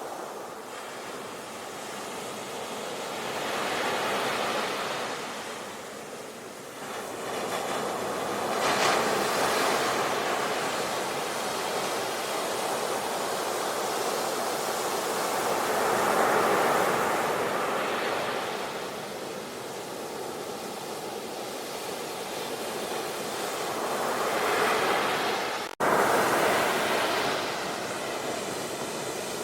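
Ocean waves breaking and washing on a shore, the surf swelling and easing every several seconds, with a momentary break in the sound near the end.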